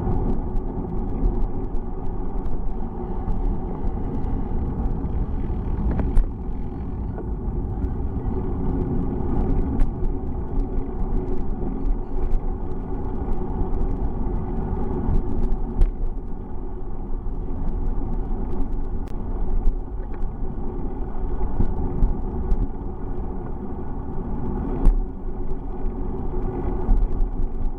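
Steady rumble of wind and road noise from riding along on a bicycle, with a few scattered clicks and knocks.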